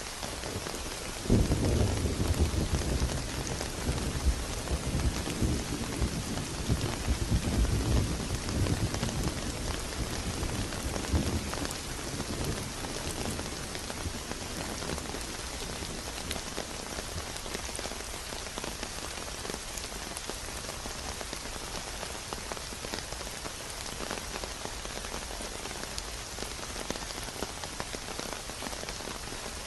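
Steady rain pattering and hissing. About a second in, a low roll of thunder starts suddenly and rumbles on, fading away over roughly ten seconds.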